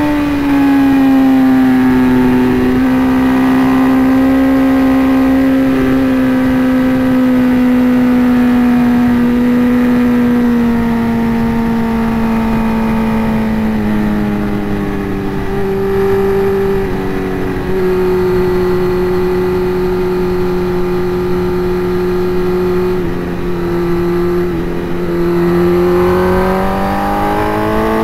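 Sport motorcycle engine held at high revs, heard from the rider's helmet camera. Its pitch sinks slowly over most of the stretch, with a few small jumps, then rises again near the end as the bike accelerates.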